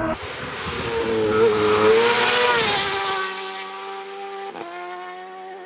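Superbike racing motorcycle passing flat out, its engine note sweeping up and over, loudest about two seconds in. It then settles to a steadier, fainter note as it draws away.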